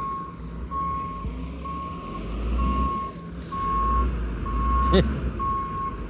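Reversing alarm of a diesel Volvo WX42 garbage truck beeping about once a second as the truck backs up, over the low rumble of its engine. A short sharp sound stands out about five seconds in.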